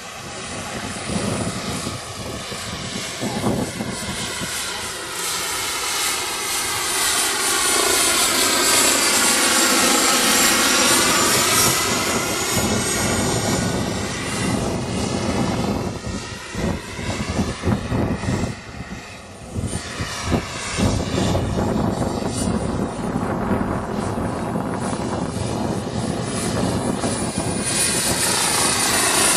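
Turbine-powered radio-controlled model helicopter in flight: a steady high turbine whine over rotor noise, swelling and fading as it moves about. It grows briefly quieter a little past halfway.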